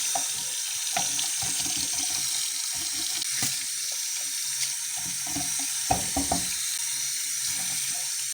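Tap water running steadily into a sink, with scattered light knocks and a brief cluster of sharper knocks about six seconds in.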